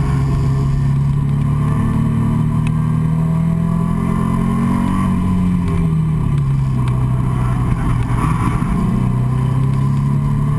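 Nissan 350Z's 3.5-litre V6 heard from inside the cabin, pulling hard with its note climbing. It drops in pitch about five seconds in, then climbs again near the end.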